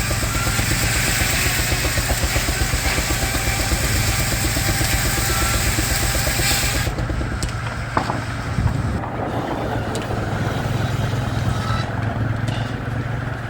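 Steam-powered sawmill running: the Baker steam engine beats out a fast, even rhythm under a bright high hiss. The hiss cuts off sharply about halfway through, and a single knock follows about a second later.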